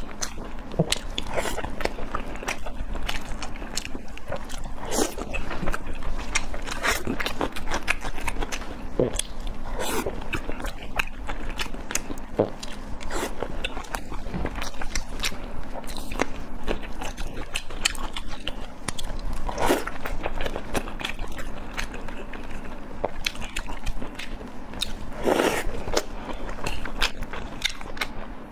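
Close-miked eating: a person chewing food with wet mouth clicks and smacks, louder bites every few seconds.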